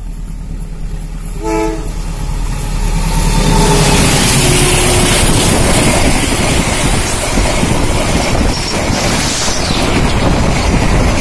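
CC 201 diesel-electric locomotive passing close by at speed with a passenger train: a short horn blast about one and a half seconds in, then a longer horn note that sags in pitch as the locomotive goes by. A loud rushing rumble of the engine and the coaches' wheels on the rails follows it.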